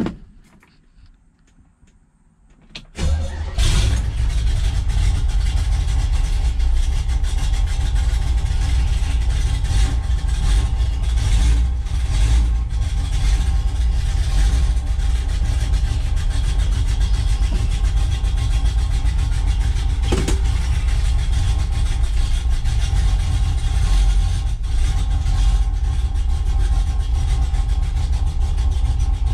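1967 Pontiac GTO's 455 V8 starting about three seconds in, catching almost at once, then idling steadily with a deep, low rumble, heard from inside the car's cabin.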